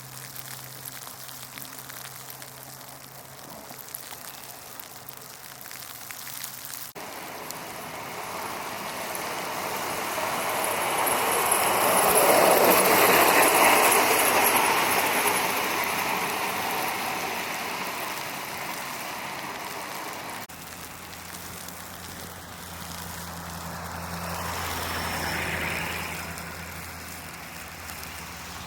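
A road vehicle passes, its tyre and engine noise swelling to its loudest about halfway through and then fading. A second, quieter vehicle passes near the end.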